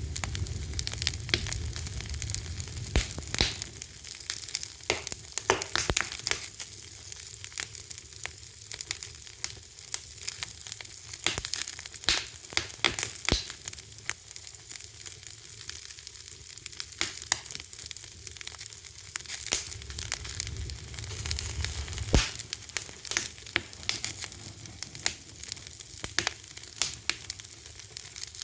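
Fire crackling: irregular sharp pops and snaps over a steady hiss, with a low rumble at the start and again about two-thirds of the way through.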